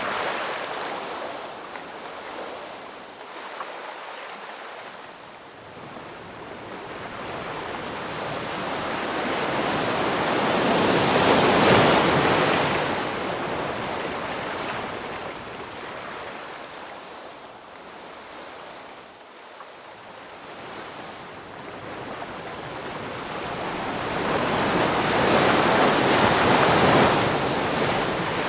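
Ocean waves surging and washing on the shore: the rush of water builds slowly to a peak about twelve seconds in, ebbs to a lull, and swells again to a second peak near the end.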